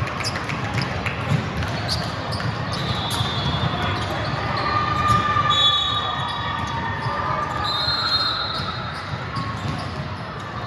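Sounds of a ball game in a gym: a ball repeatedly hitting the floor or hands, with short high sneaker squeaks on the court, over a constant murmur of spectators' voices.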